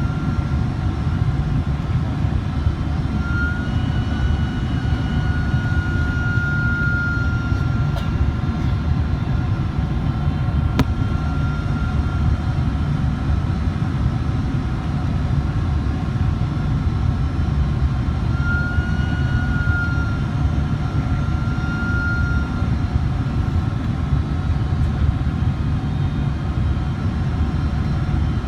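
Jet airliner on its landing approach, a steady low roar of engines and airflow with a thin whine on top that rises slightly twice.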